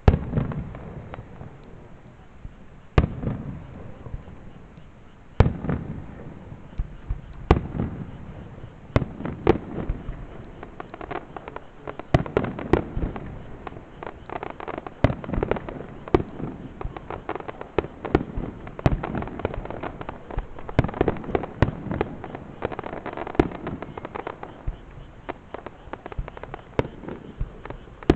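Aerial fireworks shells bursting: single loud booms every couple of seconds, each trailing off in a rumble, then from about halfway a dense run of bangs and crackling.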